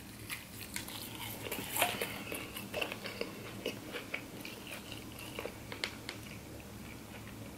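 Close-up biting and chewing of a crispy fried chicken tender: irregular crunchy crackles and wet mouth clicks, busiest in the first six seconds and thinning out near the end.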